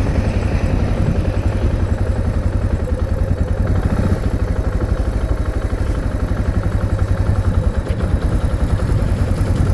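Motorcycle engine running steadily at a low, even idle-like pace, with a continuous low pulsing beat.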